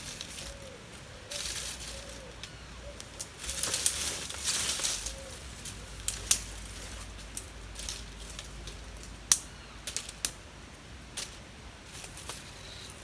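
Two bursts of rustling early on, then a scattering of sharp clicks and knocks, a few of them louder than the rest.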